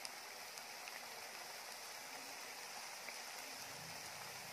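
Chopped onions frying in oil in a clay pot: a soft, steady sizzle, with a few faint clicks.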